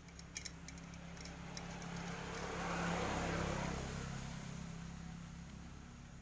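A motor vehicle passing by: its noise builds, peaks about three seconds in and fades away, over a steady low hum. A few light clicks come near the start.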